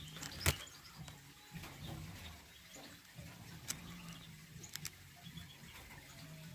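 Faint, scattered chirps of small birds in an aviary over a low steady hum, with a few sharp clicks, the loudest about half a second in.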